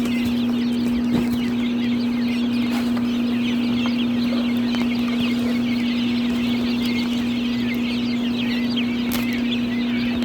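A crowd of young chicks peeping continuously, many short high peeps overlapping, over a steady low electrical hum.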